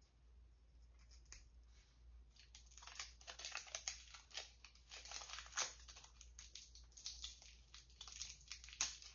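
Faint crinkling and tearing of a cosmetic product's packaging and safety seal being opened by hand, with scattered crackles at first and a dense run of them from a couple of seconds in.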